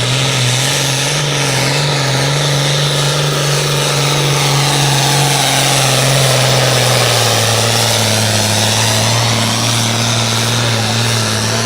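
Modified pulling tractor's engine running hard and loud as it pulls the sled down the track, the note dropping slightly about seven seconds in.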